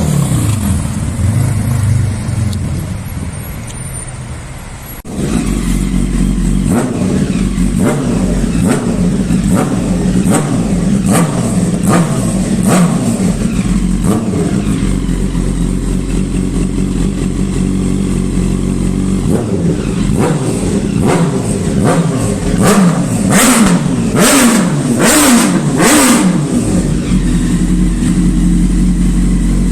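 Inline-four sportbike engine revving and accelerating, its pitch climbing and dropping again and again. It switches abruptly to a louder run about five seconds in.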